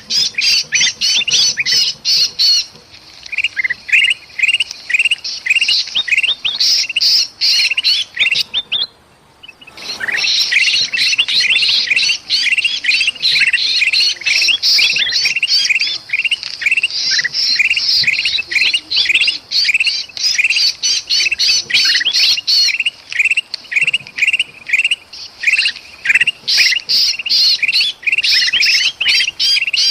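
Bulbuls calling in agitation, a dense run of harsh, rapid chirps several a second, the alarm and distress calls of a disturbed and trapped bulbul used to lure other birds. The calling breaks off for about a second and a half about nine seconds in, then resumes.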